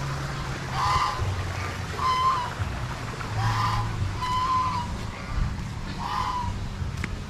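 A bird calling over and over, short calls about once a second, over a low steady rumble.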